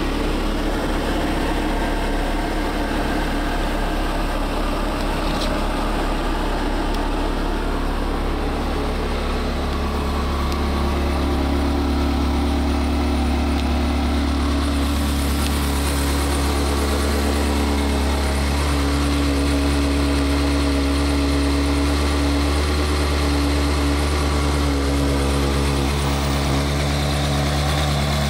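Ferrari 360 Modena's 3.6-litre V8 idling steadily, a little louder from about ten seconds in.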